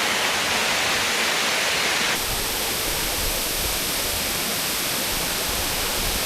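Waterfall rushing steadily. About two seconds in the sound changes abruptly, and a deeper low rumble joins the rush.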